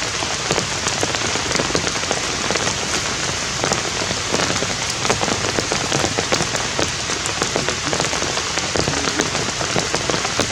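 Steady heavy rain falling: a dense, even hiss with countless small drop hits.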